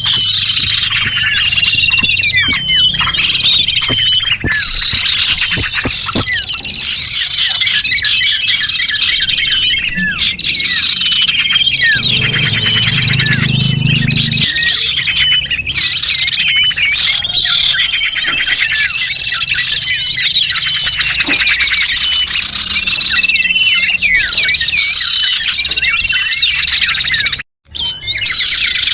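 Lure-call recording of many small songbirds chirping and twittering densely and without pause, high-pitched. The sound cuts out for a split second near the end.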